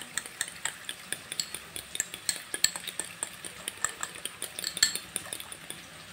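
Yogurt being beaten with spice powders in a bowl: a utensil clinks quickly and unevenly against the bowl, several strikes a second.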